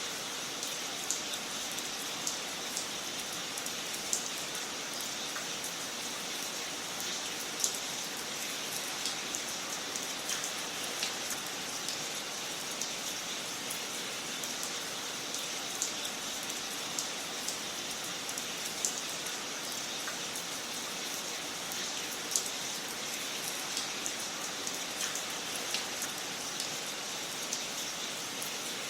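Wood fire crackling in a fireplace: a steady hiss with frequent sharp pops and snaps at irregular moments.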